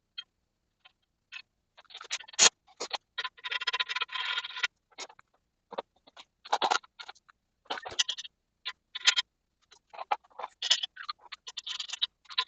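Hand tools working on metal suspension parts: scattered clinks and knocks, one sharp loud clink about two and a half seconds in, and two stretches of rapid rasping, scraping noise, one a few seconds in and one near the end.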